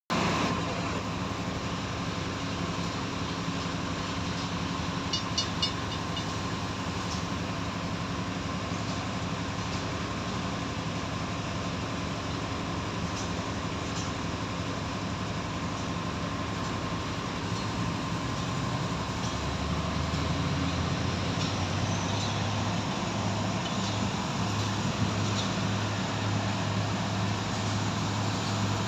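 Heavy machinery engine on a marine piling barge running steadily. Its note gets lower and louder about 18 seconds in. A few brief high chirps come around five seconds in.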